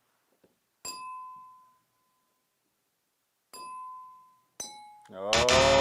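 A small ringing object is struck three times, each ring fading over about a second; the third strike is a little lower in pitch. Near the end a louder pitched sound with a low hum comes in.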